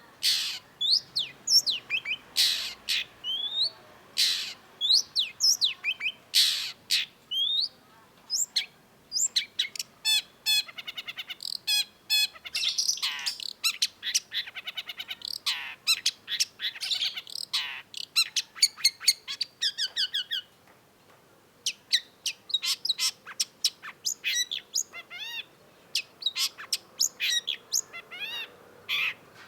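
Long-tailed shrike singing a fast, varied song of sharp rising whistles, harsh notes and rapid rattling trills, with a brief pause about two-thirds of the way through.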